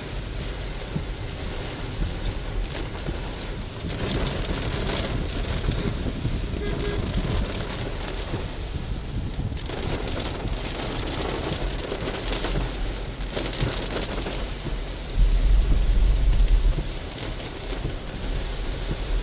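Heavy rain beating on a car's roof and windscreen, heard from inside the moving car as a steady hiss. About three-quarters of the way through, a louder low rumble rises for a second and a half, then falls back.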